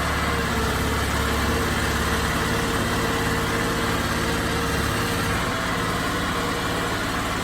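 Crawfish boat engine running steadily. Its deep low hum and steady tone drop away about five seconds in, as the engine eases down.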